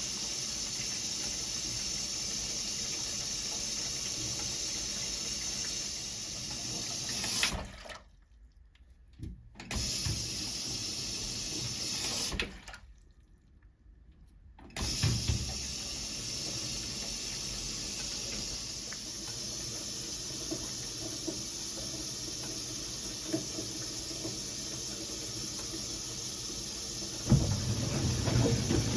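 Water running into a 1978 Siemens WA4600 front-loading washing machine as it fills, a steady rushing hiss. It cuts out twice for a second or two, and a louder, lower sound comes in near the end.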